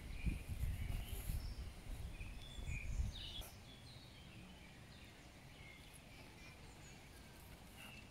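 Small birds chirping in woodland, with low thumps and rumble during the first three seconds that stop about three and a half seconds in.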